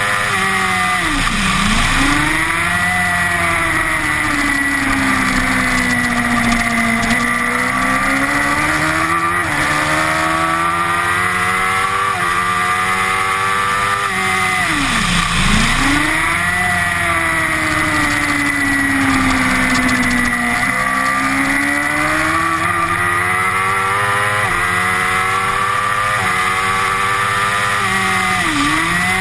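Honda CBR1000RR superbike's inline-four engine at racing speed, heard onboard. The revs climb and change in steps through the gears, and three times, about a second in, midway and near the end, the pitch drops sharply and swings back up as the rider brakes and downshifts for a corner.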